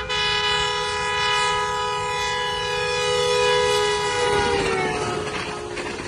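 Diesel locomotive horn held in one long multi-tone blast as the express train passes through. Its pitch drops as the locomotive goes by, then it fades into the rumble of the passing coaches.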